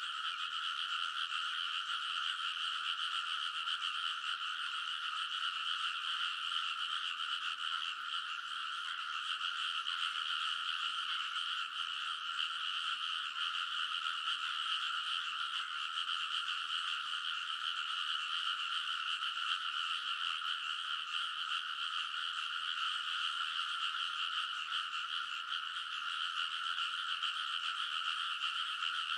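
A dense chorus of many frogs calling together from a rice paddy, a steady, unbroken din of croaking with no pauses.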